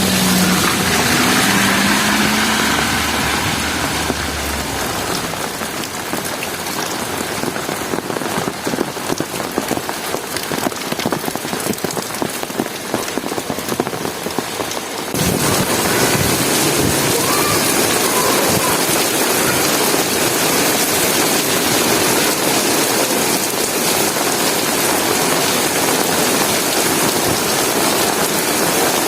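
Heavy rain falling and hitting hard surfaces, with a low hum and a faint tone during the first few seconds. About halfway through, the rain abruptly becomes louder and denser, a steady hiss replacing the crackle of separate drops.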